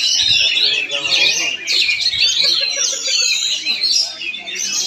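Oriental magpie-robin (kacer) singing a continuous, rapid song of varied whistles, chirps and trills, with no pause.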